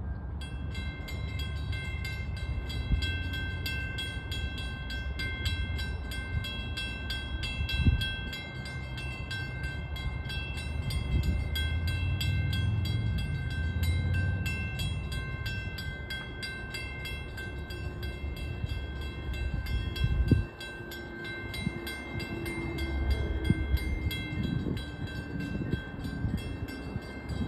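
Distant approaching Metra commuter train, its faint horn heard in the second half, under a heavy low rumble of wind on the microphone. A steady high-pitched ringing runs underneath.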